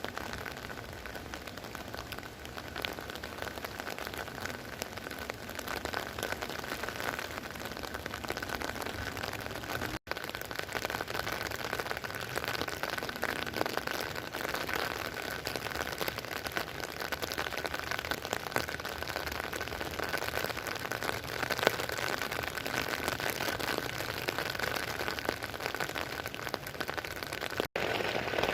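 Steady rain falling, an even hiss with many individual drops heard as ticks, and a faint steady high tone underneath. It breaks off for an instant twice.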